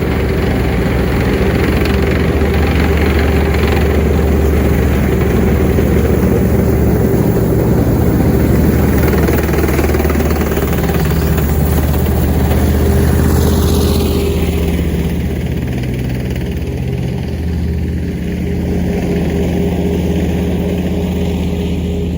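Tank engine running loud and steady as the tank drives by, its sound shifting a little over halfway through as it moves past.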